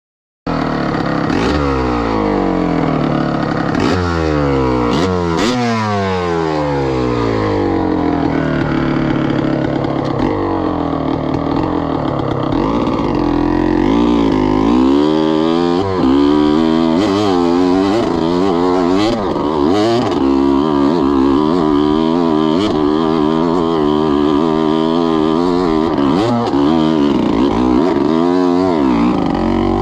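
2003 Gas Gas EC300 single-cylinder two-stroke engine, revving up and down over and over as the throttle is worked. It starts abruptly just after the beginning, and the rises and falls come quicker and shorter in the second half.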